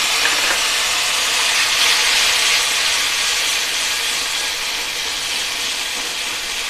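Tomato and green chilli paste sizzling hard in hot tempering oil in a steel kadhai, a dense steady hiss of water flashing to steam as it is stirred. It is loudest about two seconds in and eases off slowly after.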